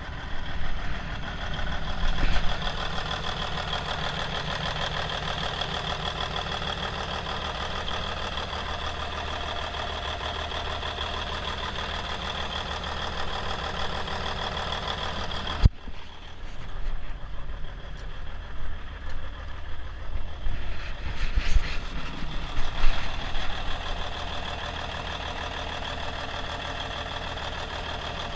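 Cummins N14 Celect Plus inline-six diesel engine running, a used engine the seller rates a good runner. About 15 seconds in the sound changes abruptly, and for several seconds it swells and falls unevenly before settling back to a steady run.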